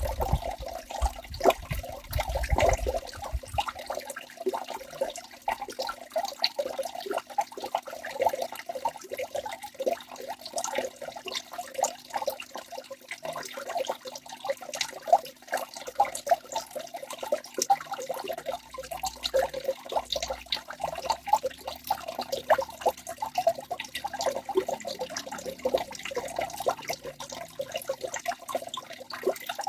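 Waterfall water splashing and gurgling steadily, with many quick small splashes and no let-up.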